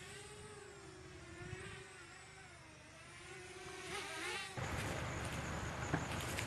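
A small motor buzzing with a pitch that wavers slowly up and down. About four and a half seconds in it gives way abruptly to a louder, steady rumbling noise.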